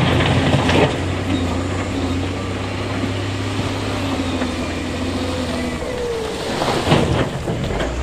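Heavy construction-machine diesel engine running steadily, with two short bursts of clatter, one near the start and one about seven seconds in.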